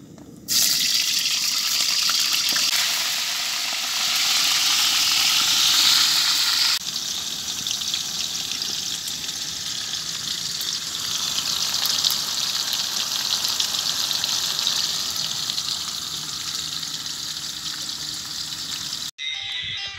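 Potato wedges dropped into hot cooking oil in a wok, frying with a loud sizzle and crackle that starts suddenly. It is loudest for the first few seconds, then settles to a steady sizzle.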